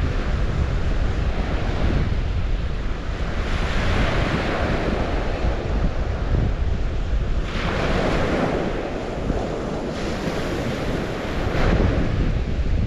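Water rushing and washing, swelling louder twice, with wind buffeting the microphone as a steady low rumble.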